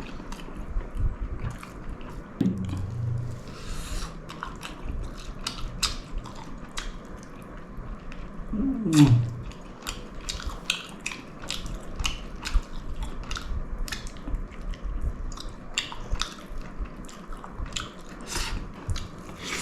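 Close-up chewing of a big mouthful of pulao mixed with chicken gravy: many small wet clicks and smacks throughout. A short sliding hum of enjoyment comes about 9 seconds in.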